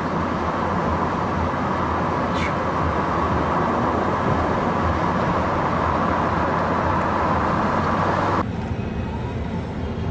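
Steady running noise of a moving vehicle, its road and engine noise heard from inside; the noise drops suddenly about eight seconds in.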